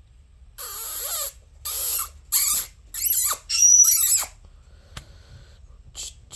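Green-cheeked conure giving a run of about five harsh, scratchy calls in quick succession, one ending in a high whistled note, followed by a couple of faint short clicks.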